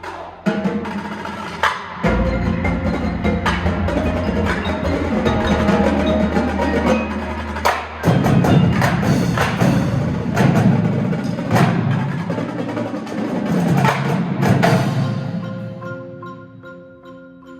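Indoor drumline with a front ensemble playing a percussion feature: many sharp drum and wood-block hits, over a sustained low bass from about two to eight seconds in. Near the end the drums fade and mallet keyboards ring on in held chords.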